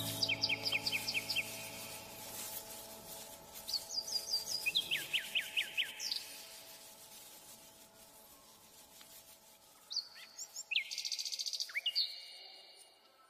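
Songbirds singing in runs of quick, repeated down-slurred chirps, three runs in all, with background music fading out underneath over the first half.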